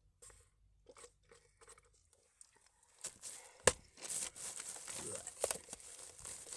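Rustling and crinkling handling noise with scattered small clicks, one sharp click a little past halfway, then denser rustling.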